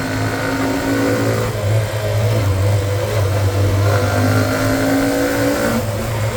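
Hero Xtreme 125R's single-cylinder engine pulling under load on a hill climb, its pitch rising slowly twice, with a brief dip near the end.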